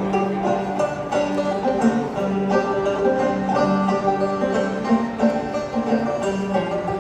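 A live band playing an instrumental passage, with plucked string instruments picking busy notes over sustained tones; no singing yet.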